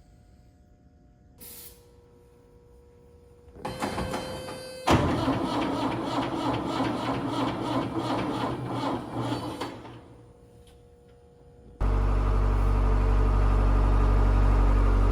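Farm machinery: about four seconds in, a mechanical clatter starts and becomes a loud rattling run with an even rhythm, which stops near ten seconds. About twelve seconds in, a large engine comes on suddenly and runs steadily and loudly.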